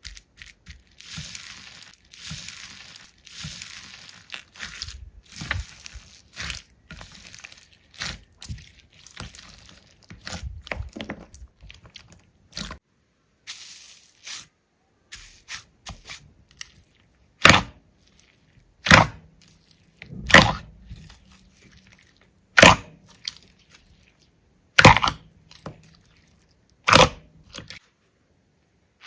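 Hands squishing and stretching slime: a run of small crackles and clicks, then six loud sharp pops, one about every two seconds, in the second half.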